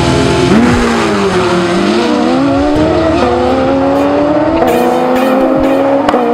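Sportbike engine at full throttle launching down a drag strip, its pitch climbing and dropping back several times as it shifts up through the gears, then rising steadily as it pulls away.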